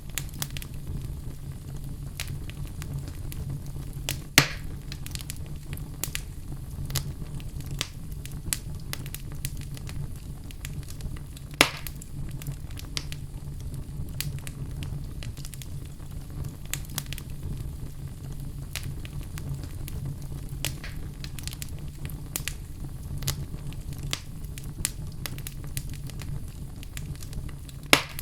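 Fire crackling: a steady low rumble under frequent small pops, with a few louder snaps, about four seconds in, near twelve seconds and again near the end.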